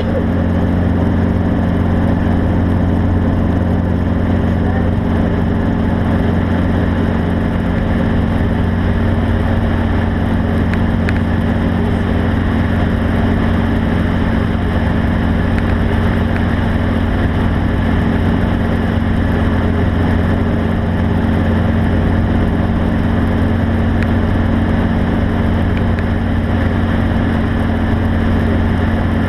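Motor vehicle engine running at a steady, unchanging speed: a constant low drone with no revving.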